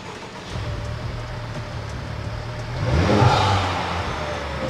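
Honda Civic Type R's 2.0-litre turbocharged four-cylinder engine running through a Spoon N1 cat-back exhaust. It flares up in a brief rev about three seconds in, then settles back toward idle.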